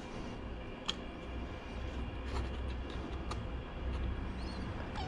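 A few sharp clicks and taps from parts being handled and fitted, over a steady low rumble.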